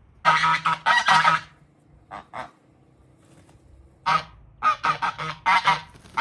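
Domestic geese honking: two long honks at the start, a faint pair, then a quick run of about six honks.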